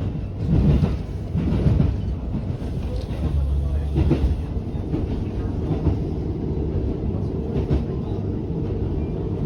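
JR Hokkaido H100 diesel-electric railcar running along the line, heard inside the cabin: a steady low rumble from the engine and wheels, with a few thumps in the first four seconds.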